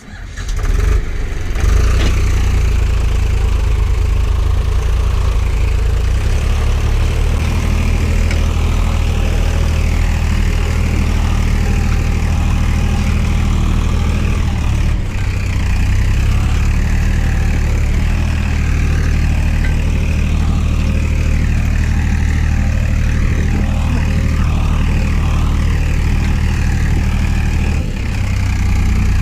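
HMT tractor's diesel engine running steadily with a deep, continuous rumble.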